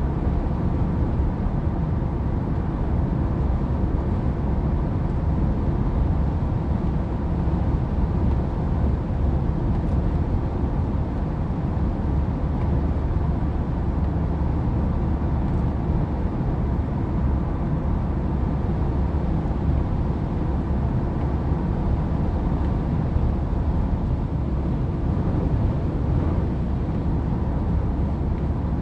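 Steady low rumble of a car driving, with road and engine noise running evenly throughout.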